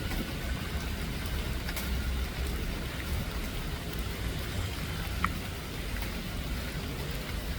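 Steady heavy rain falling, with a low rumble underneath and a few sharp drip-like clicks.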